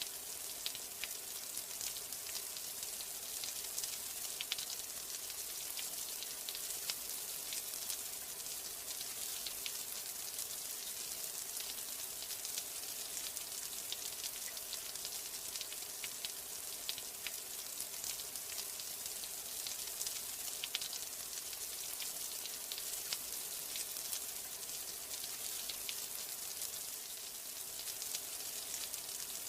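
Steady rain: a dense, even hiss of falling water with the small ticks of individual drops scattered all through.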